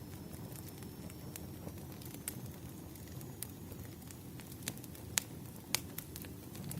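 Campfire burning: a steady low rush of flames with scattered sharp crackles and pops, a few louder snaps in the second half.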